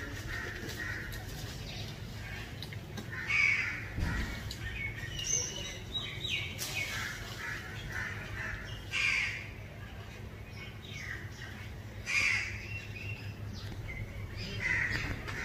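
Birds calling: short loud calls about every two to three seconds, over a steady low background noise.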